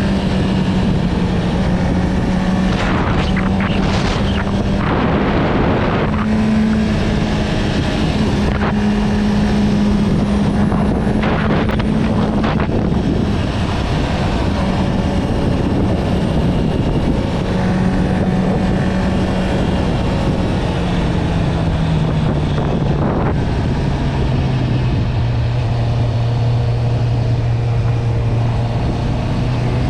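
Honda CB650R's inline-four engine with an Akrapovič exhaust, running at steady revs with wind rushing past. About two-thirds of the way in the engine note drops to a lower pitch as revs fall, then begins to rise again near the end.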